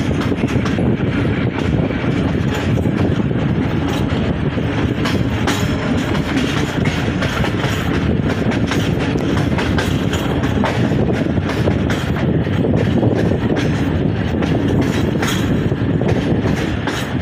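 Hazara Express passenger train running along the track at speed. A steady rumble from the coaches is broken by frequent clicks of the wheels over the rails.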